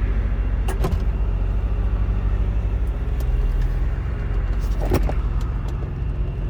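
Supercharged BMW M3 straight-six with Dinan exhaust idling steadily, with a sharp click about a second in and another near five seconds.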